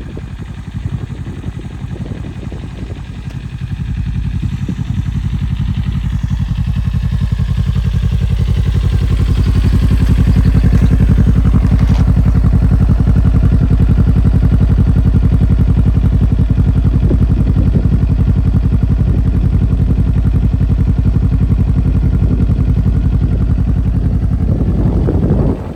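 Kawasaki Ninja 400 parallel-twin engine running through an Akrapovic aftermarket exhaust. Its pitch and loudness climb over the first ten seconds or so, then hold steady and loud until they drop off suddenly near the end.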